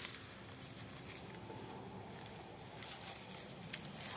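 Quiet shop room tone: a faint steady low hum and hiss, with a few light clicks.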